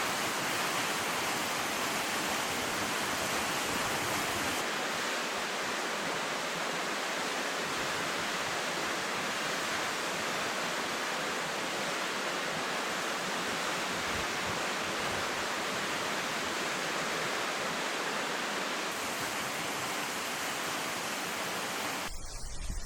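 Waterfall's steady rush of falling water. Near the end it cuts off abruptly to something quieter and more uneven.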